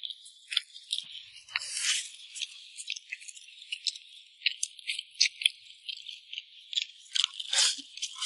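Close-up eating sounds: a person chewing rice and braised meat, with quick, irregular wet mouth clicks and smacks, and chopsticks now and then touching the plate.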